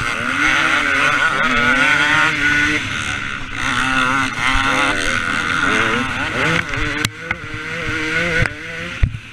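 Two-stroke engine of a KTM 250 SX motocross bike revving up and down repeatedly as it is ridden around the track, with a steady rush of wind noise. There is a sharp click about seven seconds in and a brief dip in the engine sound near the end.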